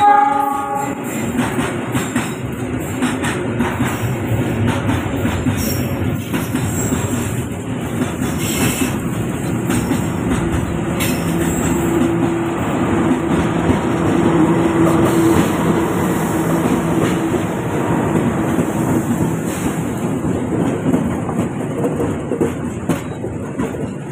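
A train passing close by, its wheels running steadily over the track throughout. A horn blast ends about a second in.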